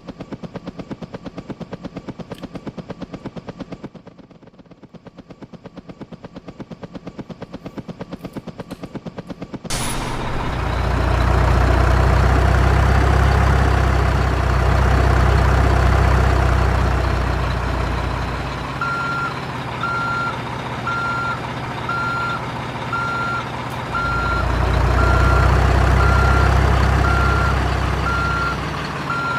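Fast, even ticking for about ten seconds, then a sudden cut to a deep truck engine rumble that swells and eases twice. A steady reversing alarm beeps about one and a half times a second through the last third.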